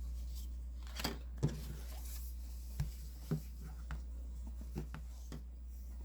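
Handling sounds from a cross-stitch piece on a plastic Q-snap frame: half a dozen soft clicks and knocks with light fabric rustle, over a steady low electrical hum.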